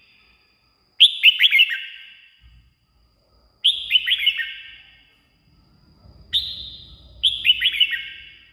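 Red-whiskered bulbul singing short, quick phrases of falling notes, one about every two to three seconds, each trailing off in an echo.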